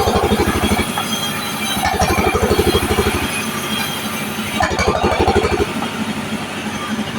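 Machine band saw cutting waru wood into small 3x4 cm strips. The rasp of the cut and the running machine swell together for a second or so, then ease, in repeated passes about every two and a half to three seconds.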